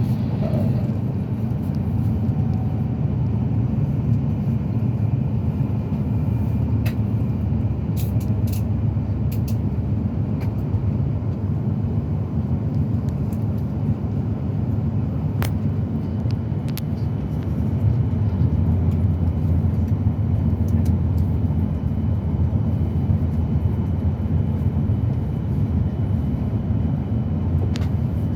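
Steady low rumble of a Shinkansen train running at speed, heard from inside the passenger cabin, swelling slightly around the middle, with a few faint sharp ticks.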